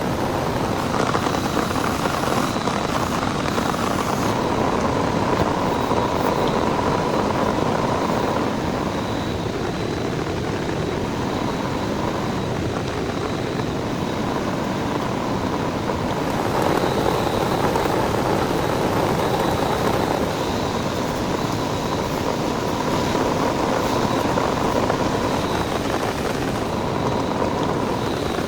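Heavy rain falling steadily, a dense hiss that swells and eases gently, with a faint steady tone running underneath.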